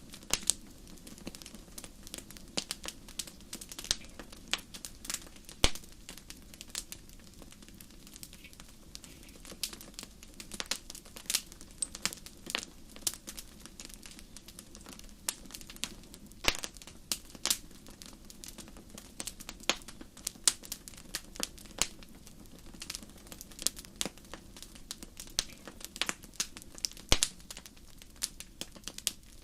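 Wood fire burning in a fireplace: irregular sharp crackles and pops, sometimes several in quick succession, over a steady low rush of the flames.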